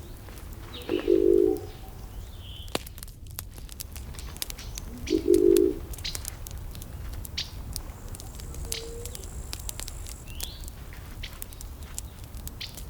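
Burning wood crackling, with many sharp pops over a low steady rumble. A bird gives a loud, low-pitched call twice, about a second in and again about five seconds in, and small birds chirp briefly.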